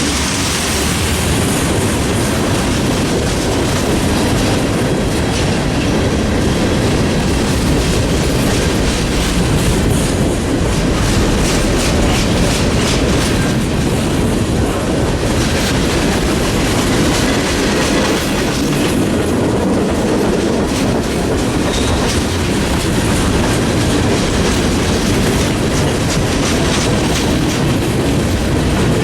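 A freight train rolling past, its cars' steel wheels clattering steadily over the rails.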